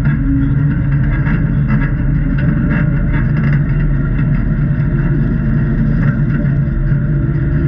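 A Jeep's engine running steadily on the trail, with no rise or fall in pitch.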